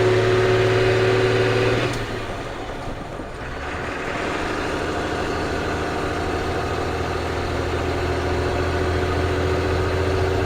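Ford CF7000's 6.6 L Brazil diesel engine under way on the road. It runs steadily under power, drops away about two seconds in as the throttle eases, then builds back up gradually.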